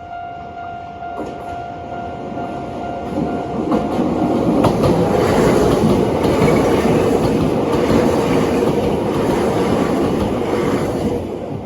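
A train passing close by. Its wheels clatter over the rail joints, growing louder over the first few seconds, staying loud, then easing off near the end.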